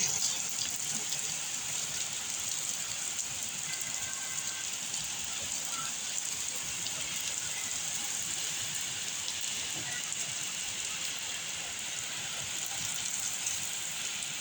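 Very heavy rain pouring down: a steady, dense hiss with the fine patter of countless drops hitting surfaces.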